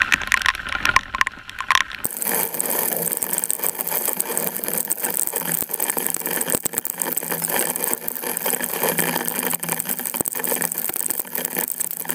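Heavy rain falling, with drops striking right at the microphone as a dense, crackling rattle that sets in abruptly about two seconds in.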